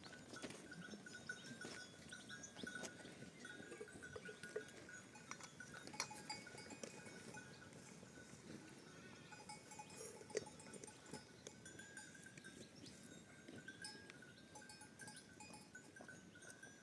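Faint livestock bells on a grazing flock of goats and sheep, ringing on and off with scattered light clicks.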